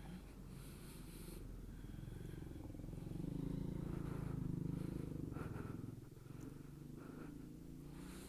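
Motorcycle engine running at low revs, a steady low rumble that swells louder for a couple of seconds in the middle and then eases back.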